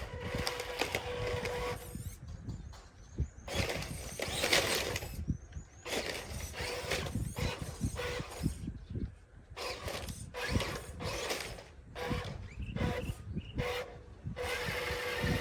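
Radio-controlled off-road truck's motor and drivetrain whining in stop-start bursts as it is driven, with scattered knocks and crunches from the tyres and chassis on dirt.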